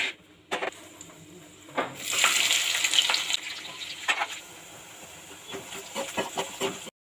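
Cooking sounds from a pan: a few sharp utensil clicks and knocks, then a loud hissing sizzle about two seconds in that lasts over a second, followed by more knocks. The sound cuts off suddenly near the end.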